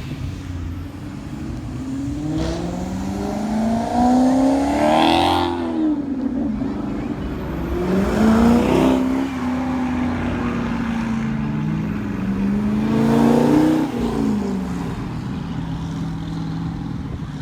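Old car engines passing one after another, the engine note rising and falling three times, about four seconds apart.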